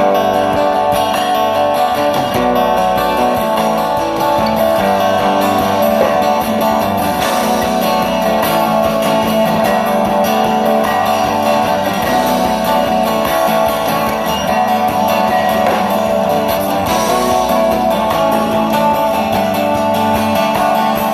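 Live country band playing an instrumental passage led by electric and acoustic guitars, with no vocals.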